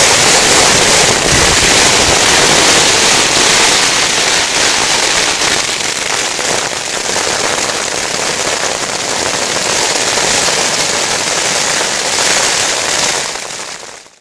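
Heavy downpour falling on a tarp shelter: a dense, steady crackling hiss that cuts off abruptly near the end.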